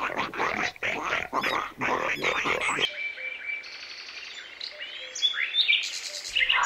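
A pig grunting over and over for about the first three seconds, then an abrupt change to birds chirping over a quiet outdoor background.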